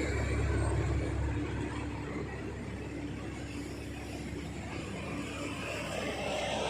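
Heavy truck engine running on a hill road, a low rumble that fades over the first couple of seconds, then the noise of another vehicle building near the end as it approaches.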